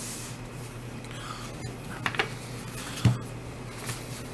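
Small handling noises of precision repair tools and their kit being moved on a table: a few faint clicks and a sharper knock about three seconds in, over a steady low hum.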